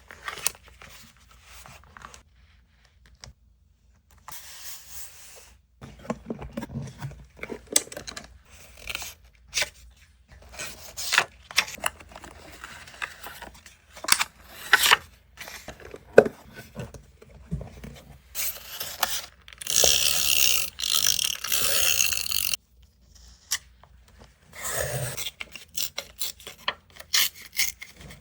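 Close-up paper and stationery handling for collage journaling: paper rustling and scraping, with many short taps and clicks, and a louder unbroken stretch of paper noise lasting about four seconds, two-thirds of the way through.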